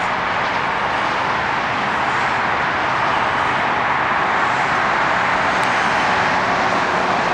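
Steady freeway traffic noise, an even rush of passing vehicles with no single car standing out.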